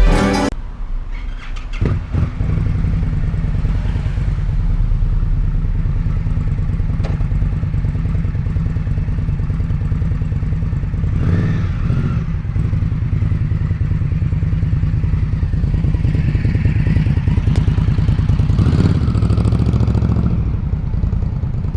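Indian motorcycle's engine idling steadily with a low, fast-pulsing note, rising a little around the middle and again near the end.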